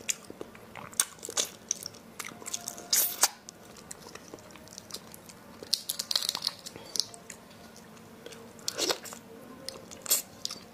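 A person biting and chewing raw shrimp: irregular wet clicks and crunches, with louder crunching bursts about 3, 6 and 9 seconds in.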